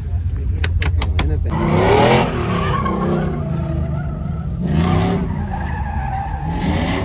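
Vehicle engines revving with tire squeal, as in burnouts, rising in three loud swells about 2, 5 and 7 seconds in over a steady low rumble. A few sharp clicks come in the first second and a half.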